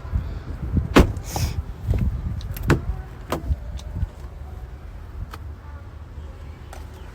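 Sharp clicks and knocks of someone moving about inside a car cabin, the loudest about a second in, over a low steady rumble.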